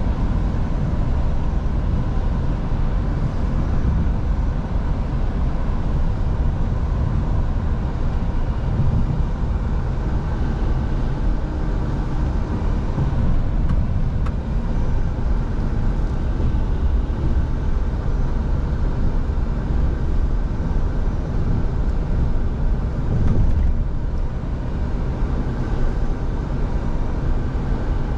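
Scania V8 truck engine running steadily while driving, with a constant low rumble.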